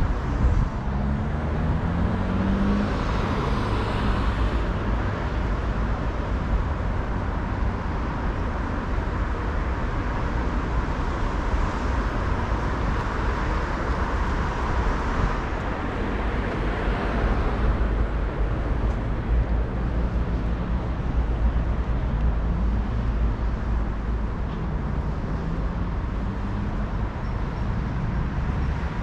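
City street traffic: a steady wash of cars passing, with an engine rising in pitch as a vehicle accelerates about a second in and again about two-thirds of the way through.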